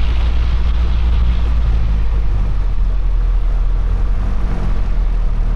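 Piper Cherokee 140's four-cylinder piston engine running steadily at low taxi power, a continuous low drone.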